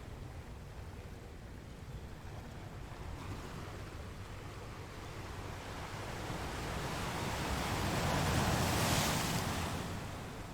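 Ocean surf: a wave builds, breaks and washes in, loudest about three quarters of the way through, then fades back to a steady wash.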